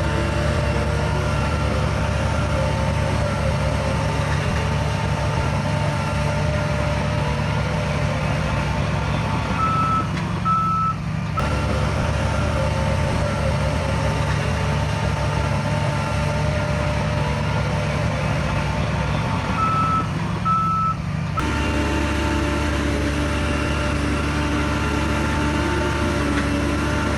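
Diesel engine of a heavy earth-moving machine running steadily under a reversing alarm. The sound briefly thins twice, about 10 and 20 seconds in.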